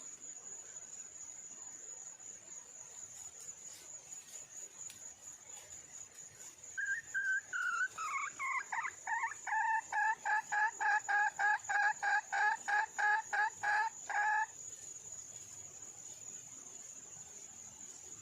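A junglefowl hen calling a rapid series of short clucking notes, starting with a few slower notes and then speeding up to about three or four a second before stopping abruptly: a hen's call to attract a mate. A steady high insect trill runs underneath.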